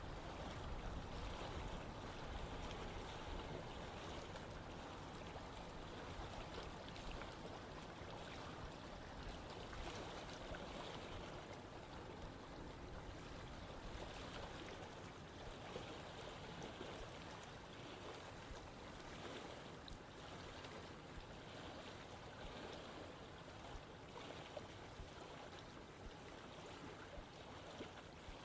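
Running water of a stream flowing steadily over rocks: a continuous, even rush with a little low rumble.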